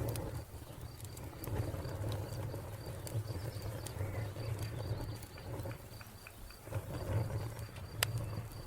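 Wood fire crackling, with scattered sharp pops over a low rumble of burning, the loudest pop about eight seconds in. A cricket chirps steadily in a high, evenly pulsing trill behind it.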